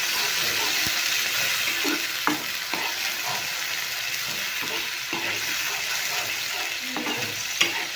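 Wet ground masala paste sizzling steadily in hot mustard oil in a nonstick kadai, with a spatula stirring and scraping through it now and then.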